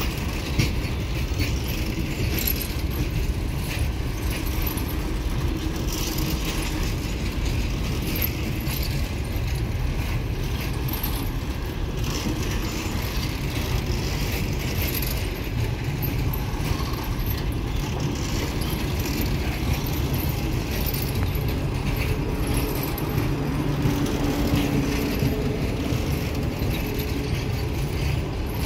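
A passenger train running on the rails: a steady rumble with a metallic rattle. A faint low hum joins near the end.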